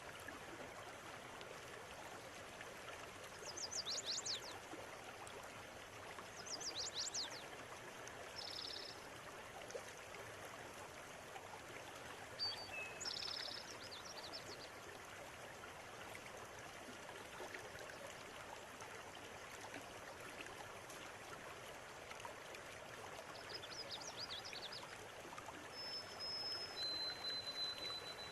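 Shallow river water running steadily, with birds calling over it: short high trills at intervals and two thin, level whistles near the end.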